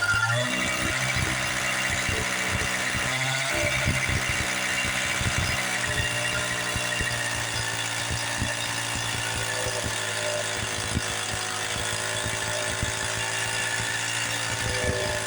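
Small two-stroke engine running steadily at high speed with a high whine, its pitch shifting briefly near the start.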